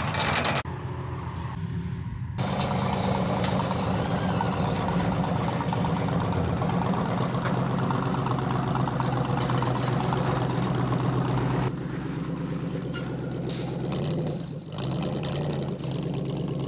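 Car engine running steadily at low revs, a low even hum, with the sound changing abruptly a few times.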